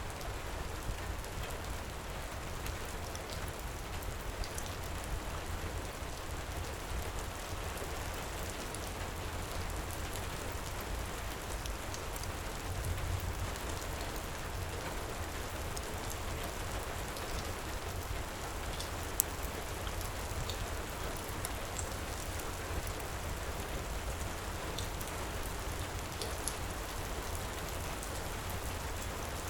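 Heavy, steady rain with a low rumble, mixed with scattered light fireplace crackles and one sharper snap about two-thirds of the way through.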